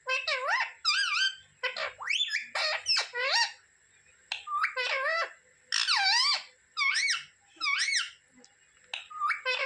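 Parrot calling in a rapid series of short, swooping whistled squawks, roughly one a second with brief pauses between.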